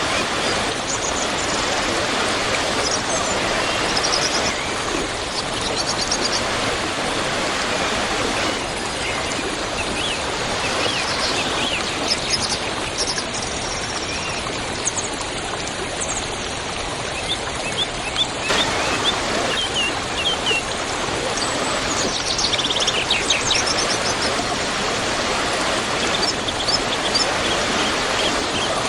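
Waterfall rushing steadily, with small birds chirping over it now and then. The water's tone shifts abruptly twice, about a third and two-thirds of the way through.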